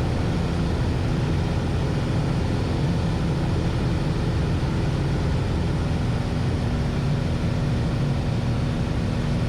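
Piper Warrior II's four-cylinder Lycoming engine and propeller droning steadily in cruise, heard from inside the cabin.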